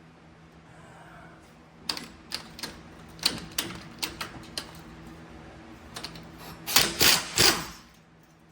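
Light metallic clicks and clinks of hand tools and hub parts being handled during front hub disassembly, irregular at first, then a few louder, longer scraping bursts near the end, with a faint steady hum underneath.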